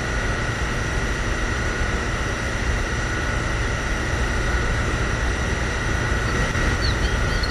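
Small DC motor mini water pump running steadily, a constant whine over a noisy hum.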